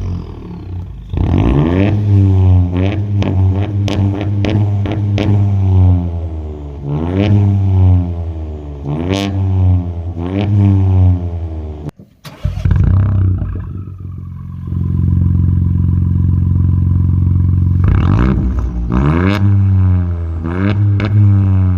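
Ford Fiesta MK8 ST-Line exhaust: the engine is blipped repeatedly, each rev rising and falling quickly. After a short break about halfway through, an engine starts up, settles to a steady idle, and is revved again several times near the end.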